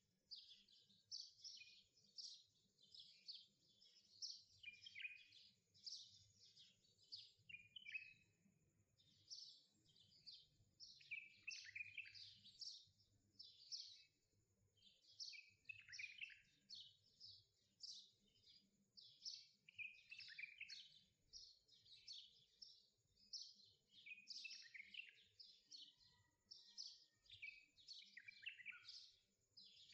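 Faint, continuous small-bird chirping: many short, quick chirps, mostly falling in pitch, several a second, with no let-up.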